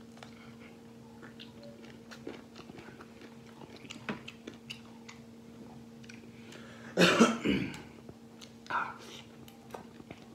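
A person chewing and gnawing meat off braised duck wings: many small wet clicks and smacks of the mouth working on the bones, with a louder burst of mouth noise about seven seconds in.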